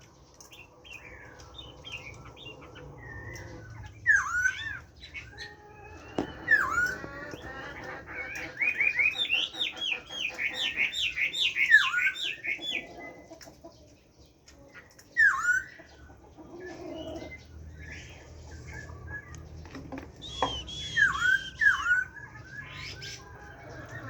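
Chinese hwamei (melodious laughingthrush) singing: loud phrases of sharp down-slurred whistles, with a fast run of quickly repeated notes in the middle.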